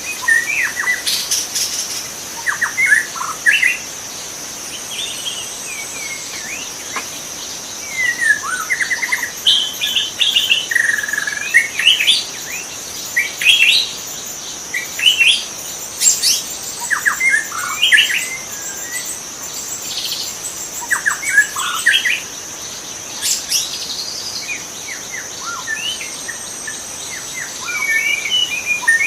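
White-rumped shama singing a varied song of short whistled and chirping phrases that slide up and down in pitch, one phrase after another with brief gaps. A steady high-pitched insect drone runs underneath.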